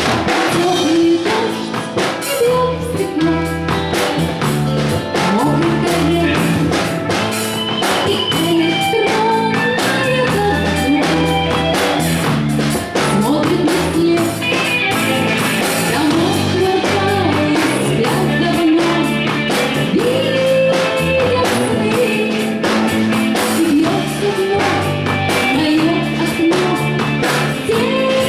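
Live band playing a song: a singer over a drum kit, bass and guitar.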